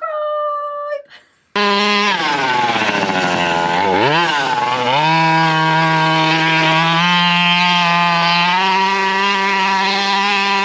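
Two-stroke engine of a 1/5-scale Rovan RF5 RC rally car. After a brief faint start it comes in loud with its revs falling, blips around four seconds in, then is held at high, nearly steady revs for most of the rest.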